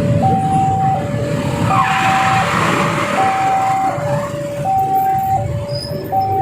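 Level-crossing warning alarm sounding a steady two-tone hi-lo signal, each tone held under a second, over road-traffic rumble, with a vehicle rushing past about two seconds in. The alarm means the crossing is warning that a train is coming and the barriers are about to close.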